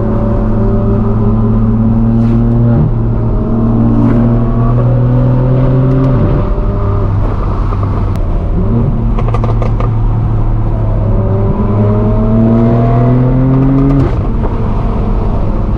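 Straight-piped exhaust of a BMW M4 F82's twin-turbo inline-six pulling hard through the gears. Its pitch climbs steadily, then drops sharply at each upshift, about four times.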